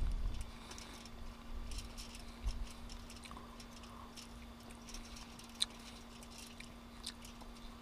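Faint chewing: a person eating a grouse burrito, with scattered small mouth clicks and a faint steady hum underneath.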